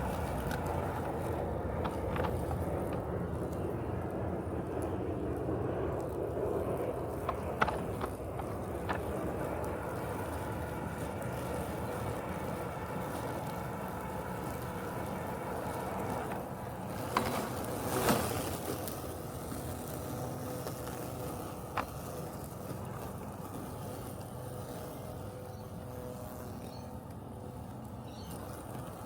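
Robotic lawn mower running with a steady mechanical hum that eases slightly in level over the stretch. A few sharp clicks sit on top, with a short louder burst about two-thirds of the way through.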